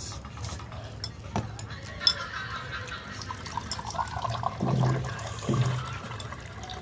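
Eating sounds from a bowl of meatball noodle soup: liquid sounds of broth with a few light clicks. There are two short low vocal sounds about five seconds in.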